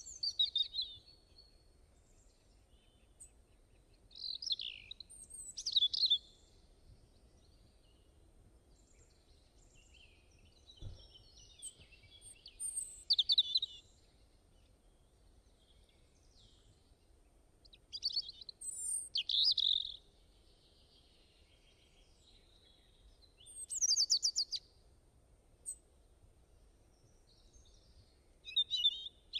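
A songbird singing short, quick phrases, one every four to six seconds with quiet gaps between, over a faint low background rumble.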